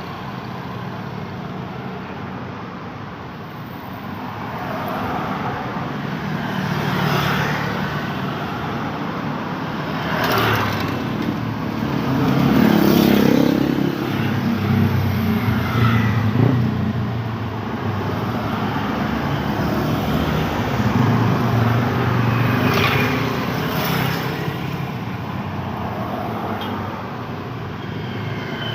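Busy road traffic: cars and motorcycles passing one after another, a steady rush of tyres and engines with several louder pass-bys, the loudest near the middle.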